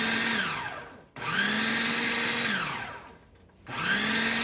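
Small kitchen appliance motor, blender-type, pulsed on and off: each burst spins up to a steady hum, holds for about a second, then winds down. Three pulses, with a short gap near the start and a longer one near the end, typical of grinding graham crackers into crumbs for a crust.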